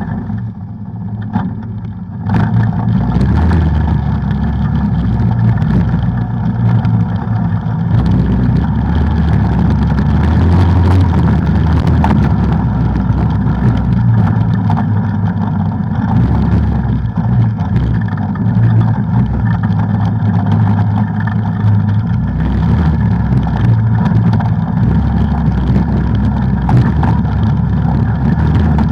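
Off-road vehicle engine running steadily while riding a trail, a low drone that picks up about two seconds in and holds on.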